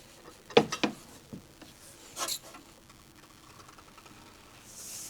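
A few sharp metallic clicks and knocks in the first two seconds or so, then quiet: the breaker bar and socket on the crankshaft of a seized 2.8 V6 as the engine is worked loose.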